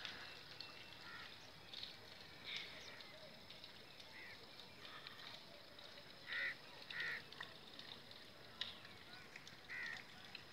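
Faint short bird calls, single calls one to three seconds apart, with a louder close pair past the middle and another near the end, over a steady hiss.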